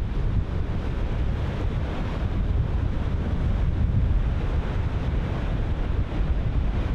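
Ocean surf breaking in a steady wash, with wind buffeting the microphone in a low rumble.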